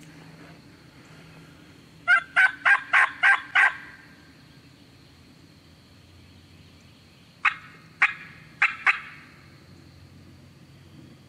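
Turkey yelps: a run of six sharp, evenly spaced yelps about two seconds in, then after a pause of a few seconds a second run of four.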